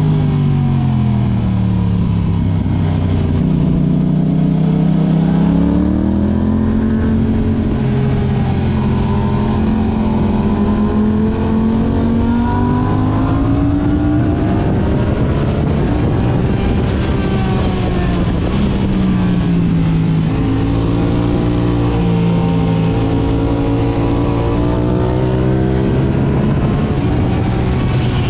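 Yamaha R6 inline-four engine through an Akrapovic exhaust under way, its revs climbing and dropping several times, with a steady rush of wind underneath.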